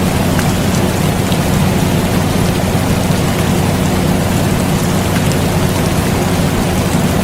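Steady rain falling, with scattered drop ticks, mixed with the constant hum of an air conditioner.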